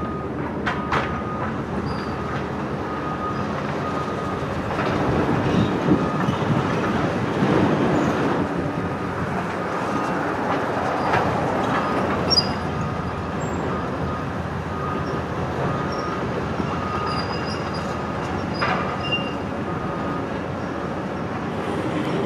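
Heavy demolition machinery working: a steady mechanical din with clanking, a few sharp knocks and faint intermittent squeaks.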